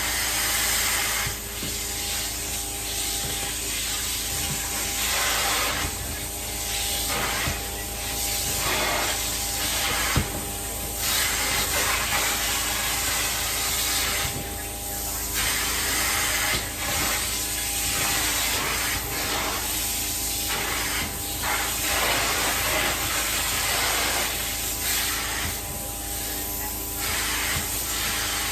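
Carpet-cleaning extraction wand spraying and sucking up water, a steady hiss that swells and fades with each pass, over the constant hum of the extraction machine.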